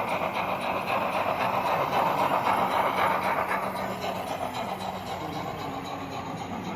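Train running on rails: a steady rushing rumble that is loudest about two to three seconds in, then slowly fades.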